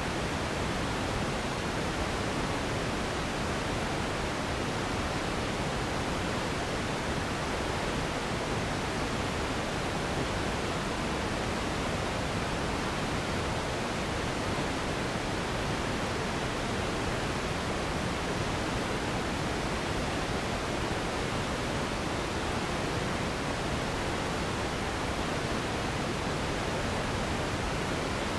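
Steady relaxation noise: an even, unbroken hiss with more weight in the low and middle range than at the top, unchanging, with no events or rhythm.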